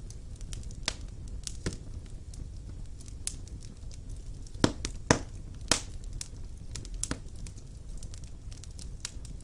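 Wood fire burning in a stone fireplace: a low steady rumble of flames with irregular crackles and sharp pops, the loudest cluster of pops about halfway through.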